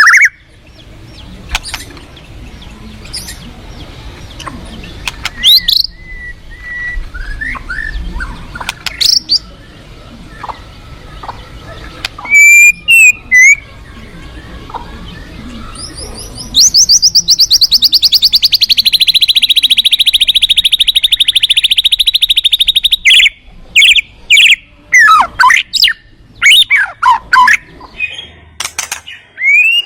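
White-rumped shama singing: sharp loud whistled notes and chirps, with a long, very fast rattling trill of about six seconds starting just past halfway and sliding down in pitch. Underneath, a steady rush of flowing river water, most audible in the quieter first half.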